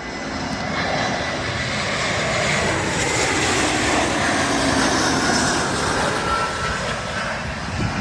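An airplane's engines passing: the roar builds to its loudest about halfway through, then begins to fade.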